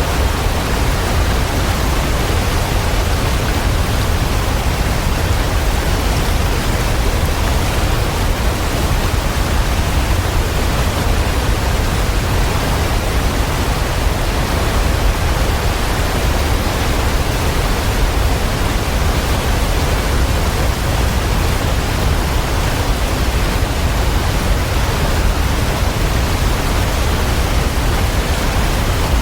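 Waterfall: a steady, unchanging rush of falling water, heaviest in the low end.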